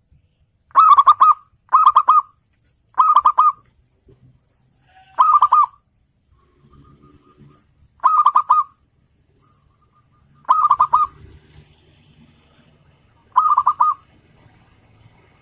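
Zebra dove (perkutut) cooing: seven short, rolling coos near the same pitch, coming every one to three seconds.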